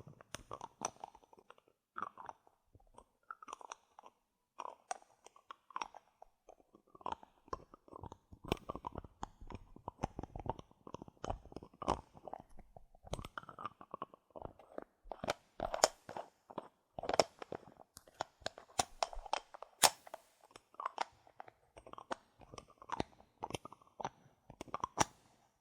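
Bottle caps handled and tapped close to the microphone as ASMR triggers: a quick, irregular run of sharp clicks and taps, several a second.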